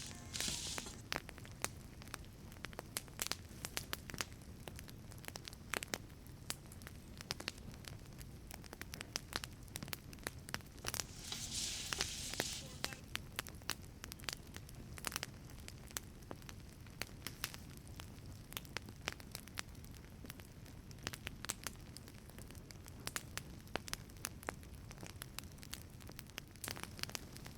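Wood fire burning in a wood-fired pizza oven: irregular crackles and sharp pops over a steady low rumble of the flames, with a brief hiss at the start and another about halfway through.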